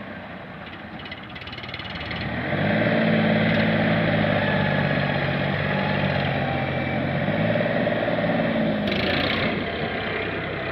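Tractor engine running: it swells in level about two seconds in and holds a steady note, with a brief hiss about nine seconds in.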